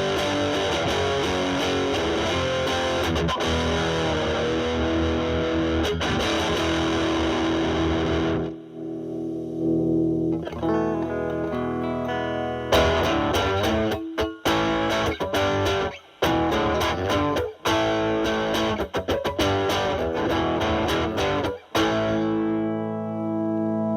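Electric guitar (Stratocaster) through a Boss DS-2 Turbo Distortion pedal into a Marshall Valvestate amp's drive channel, at the pedal's 'cleans up' setting. Thick sustained chords for about eight seconds, then lighter picked notes, then choppy chords cut off short, ending on a held chord.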